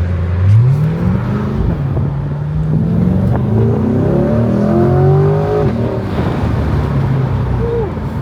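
Car engines running, with one revving up in pitch about half a second in, then several engines rising in pitch together from about three to five and a half seconds in.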